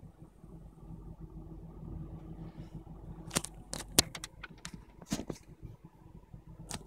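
Car engine idling in traffic, heard as a steady low hum from inside the cabin. From about three seconds in come a series of sharp knocks and rubs from the phone being handled and turned, the loudest about four seconds in.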